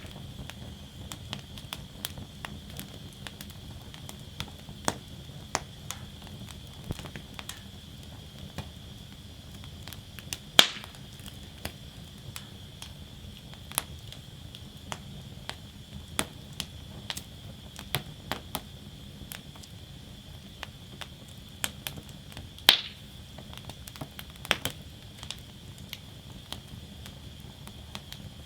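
Wood fire burning in a fire basket, crackling with frequent small snaps over a steady hiss, with two louder pops about ten seconds in and again near twenty-three seconds in.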